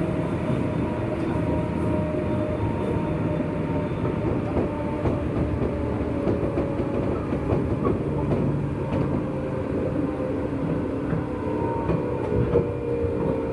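JR West 201 series electric train running along the track, heard aboard the motor car: a steady rumble of wheels on rail with many short clicks and the hum of the motors and gears. Near the end one tone falls in pitch.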